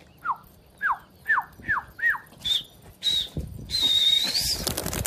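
A pigeon keeper whistling to his flock: five quick falling whistles, then higher, longer whistles, the last one rising at its end. In the last second and a half a rushing noise ends in a flurry of clicks.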